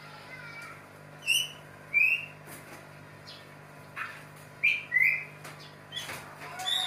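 White-rumped shama (murai batu) giving short, sharp chirping calls: about seven quick notes at irregular intervals, some rising and some falling in pitch, over a faint steady low hum.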